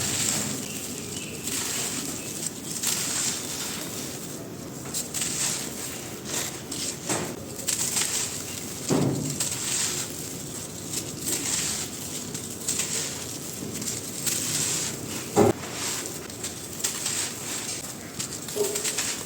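Dry black grainy sand shapes crumbling and crunching on a floor, a continuous crackle of many small breaks. A sharper knock stands out about fifteen seconds in.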